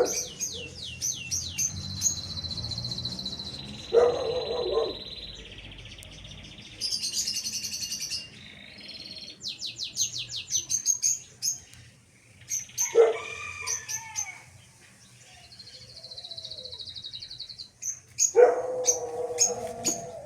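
Small caged birds chirping and trilling in quick series of short high notes. Louder, lower, harsher sounds break in about 4 seconds in, again around 13 seconds, and near the end.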